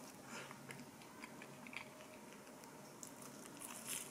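Faint biting and chewing of toasted bread topped with scrambled egg, with scattered small crisp crackles and a louder crunchy bite near the end.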